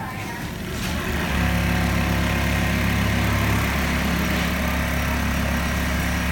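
Industrial automatic pattern sewing machine running: a steady mechanical motor hum that comes in about a second and a half in and holds level.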